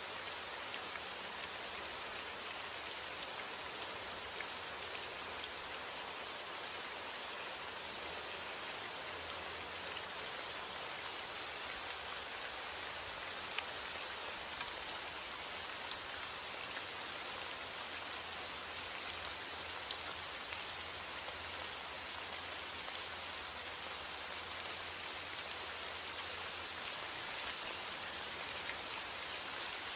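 Steady heavy rain: a dense, even hiss of rainfall with scattered sharp ticks of individual drops striking a surface.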